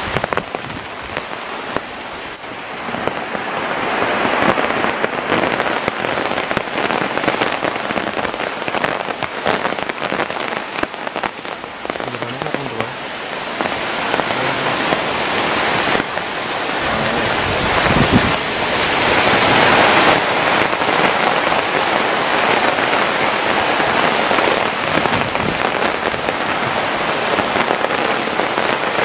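Heavy rain pouring steadily, growing louder past the middle, with a single low thump partway through.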